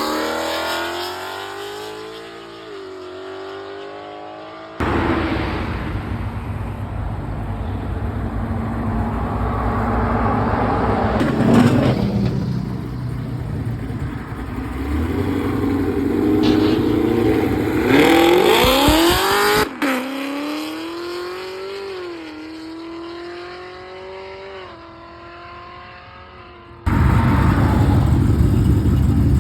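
Car engines revving and accelerating hard, the engine note climbing and dropping repeatedly as through gear changes, split into several clips that cut in abruptly.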